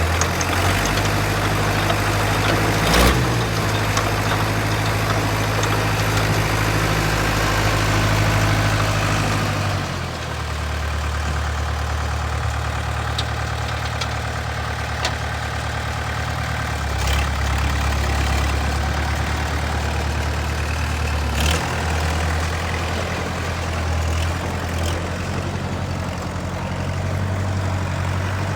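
Ditch Witch 7610 trencher's engine running steadily at idle. Its pitch drops to a lower speed about ten seconds in. There are a couple of brief knocks, one near the start and one past the middle.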